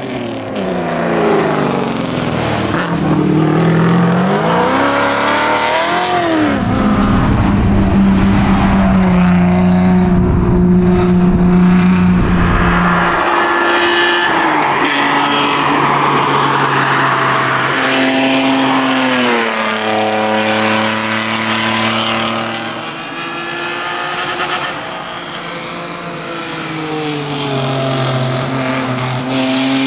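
1990 BMW 325i's straight-six engine under hard competition driving, revs climbing and dropping repeatedly through gear changes. About a quarter of the way in a heavy rumble of road and tyre noise rises over a steady engine tone for several seconds, and revs fall lower for a while near the end.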